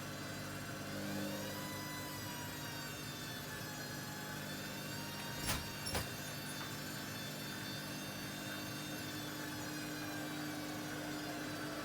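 Hoover Dynamic Next washing machine's drum motor whining as it turns the drum, the pitch rising early on and then slowly falling. Two sharp knocks about half a second apart near the middle.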